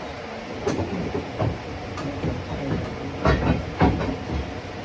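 Irregular metallic clanks and knocks as an engine hanging from a hoist is shifted against the headers while it sits stuck in the engine bay.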